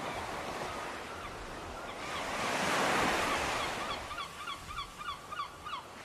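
A bird calling in short repeated calls, about three a second, starting about a second and a half in and most regular near the end, over a steady rushing wash of ambient noise that swells about three seconds in.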